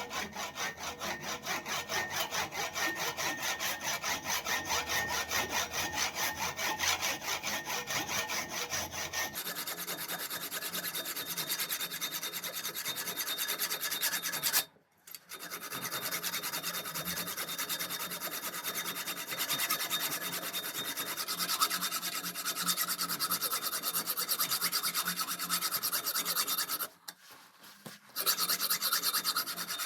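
Rapid back-and-forth hand scraping on rusted metal, in quick, even strokes. The sound of the strokes changes abruptly about nine seconds in, and it stops briefly twice.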